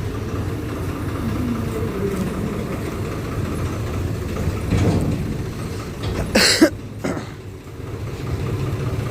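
Steady low rumble of a vehicle running. A brief, loud, noisy burst comes about six and a half seconds in, followed by a smaller click.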